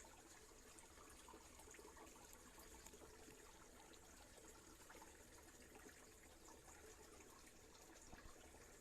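Faint, steady trickle of shallow stream water, with scattered small ticks.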